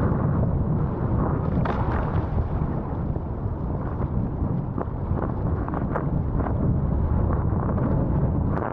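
Wind buffeting the camera microphone in a steady, heavy low rumble.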